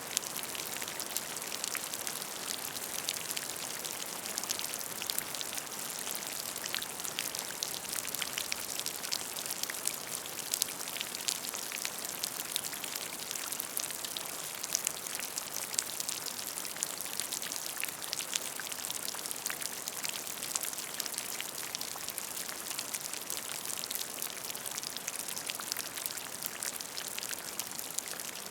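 Steady rain falling on a puddle: a continuous hiss full of many small, closely spaced drop splashes.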